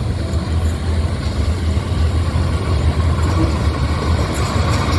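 Steady low rumble of a train's diesel locomotive engine running as the train comes near.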